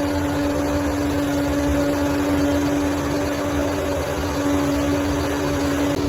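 Bulldozer's diesel engine running at a steady speed, a constant low rumble with a steady hum over it.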